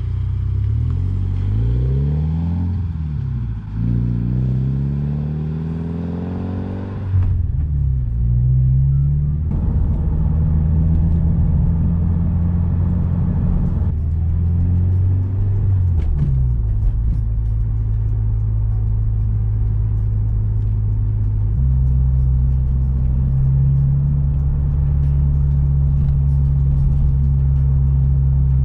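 A sports coupe's flat-four engine running on the road, its pitch rising and falling several times as it accelerates, shifts and coasts. From about seven seconds in it is heard from inside the cabin as a louder steady drone, with a dip and rise mid-way and a step up in pitch about three-quarters through. When the throttle is lifted, the fuel injectors are shut (deceleration fuel cut-off) while the engine keeps turning.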